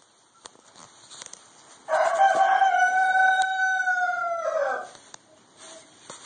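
A rooster crowing once: one long, smooth, slightly arched call of about three seconds, starting about two seconds in, over a few faint ticks and rustles.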